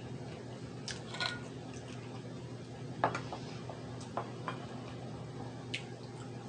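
Scattered light clicks and taps of eating, about seven in all at uneven intervals, over a steady low hum.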